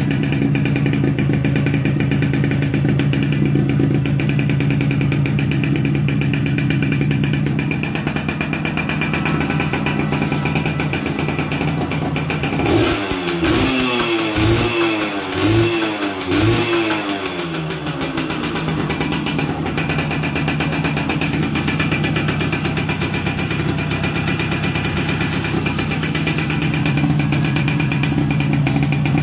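Yamaha Yaz two-stroke motorcycle engine idling, revved in four quick blips about a second apart midway, then settling back to idle.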